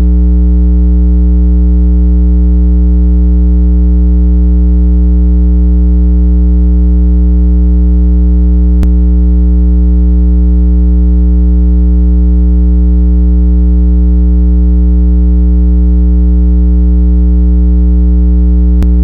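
Electronically generated 165 Hz water-eject tone for clearing moisture from earbud speakers: a loud, steady low hum with a stack of overtones. Two faint clicks come about ten seconds apart.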